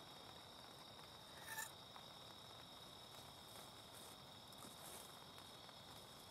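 Faint, steady high-pitched drone of night insects such as crickets, with a brief short chirp-like sound about a second and a half in.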